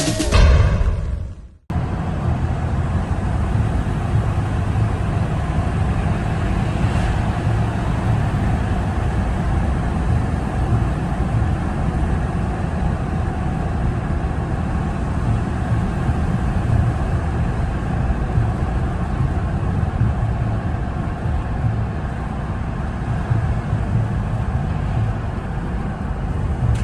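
A vehicle driving: steady engine and road rumble, heaviest in the low end, continuing without a break. A music track cuts off about one and a half seconds in, just before it.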